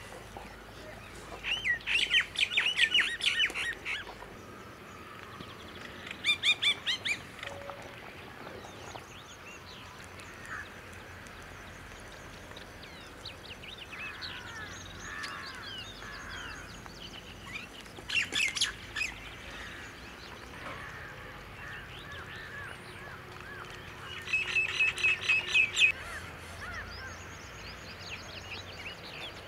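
Birds calling outdoors: four bursts of quick, repeated high notes, the longest early on and the others at about six, eighteen and twenty-five seconds, with fainter chirps in between.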